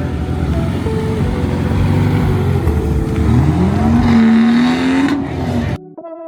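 Car engine revving hard, its pitch climbing steeply about three seconds in and holding high, then cut off abruptly near the end.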